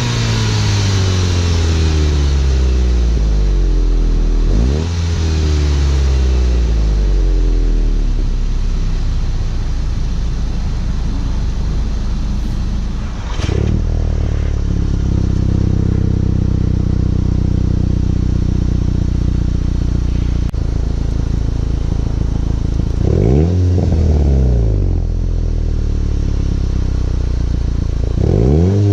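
Volkswagen GTI engine and exhaust under way through the gears: the revs climb sharply and fall away several times, with a steady stretch of cruising in the middle.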